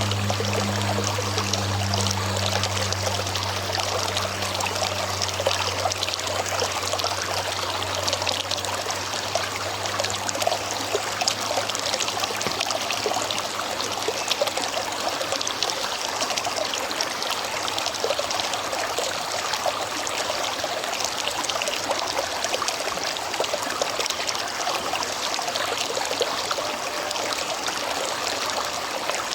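River water flowing steadily, a continuous rushing trickle. A low hum fades out during the first few seconds.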